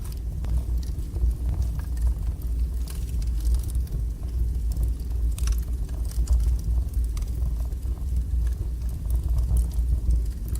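Strong wood fire burning in a fireplace: a steady deep sound of the flames and draught, with scattered small crackles and pops of the burning wood.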